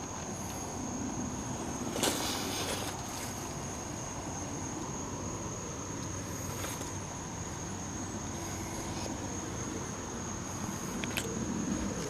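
Insects giving a steady high-pitched trill, with a few brief crunching or rustling sounds, the strongest about two seconds in.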